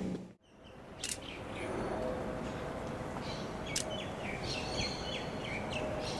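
Birds chirping in a short run of calls about halfway through, over steady outdoor background noise. Just before that, the sound of a passing train cuts off abruptly near the start.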